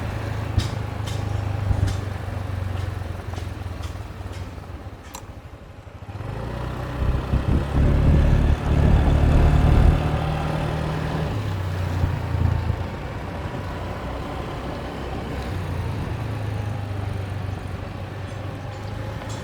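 Motorbike engine running during a ride, with road and wind noise. It eases off about five seconds in, then grows louder from about seven to ten seconds before settling back to a steady run.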